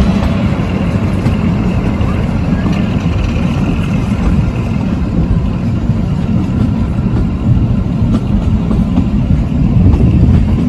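A narrow-gauge toy train running, heard from aboard: a steady low rumble and rush.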